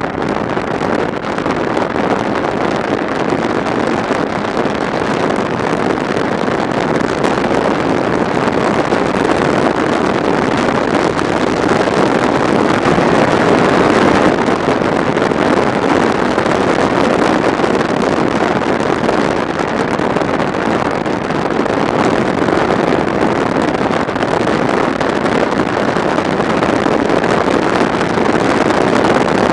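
Steady rush of wind over the camera microphone on a moving motorcycle, with road and engine noise underneath.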